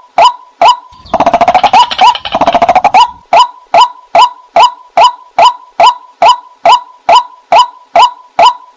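White-breasted waterhen calls used as a hunting lure: a steady run of short "kwak" notes about two a second, with a fast rattling chatter between about one and three seconds in.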